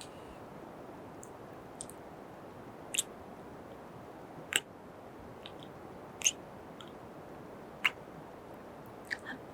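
Close-up kisses into the microphone: four loud wet pops about a second and a half apart, with a few softer mouth clicks between them, over a steady hiss.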